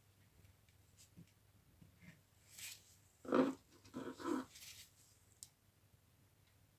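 A few short scraping, rubbing handling noises of small parts being worked by hand. The loudest comes about three and a half seconds in, followed by two more just after four seconds.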